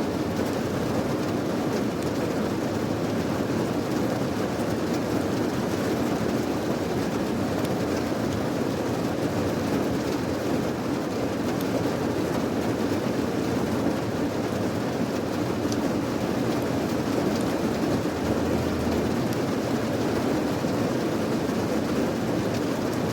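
Steady rain: a dense, even rush of noise weighted toward the low end, with a few faint sharper drop ticks.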